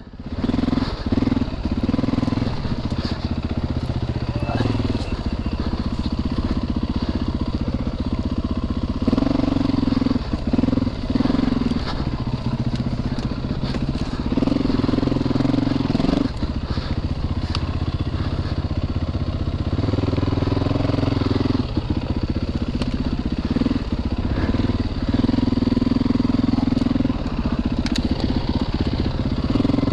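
Four-stroke dirt bike engine running under way off-road, its revs rising and falling with the throttle in stretches of a few seconds.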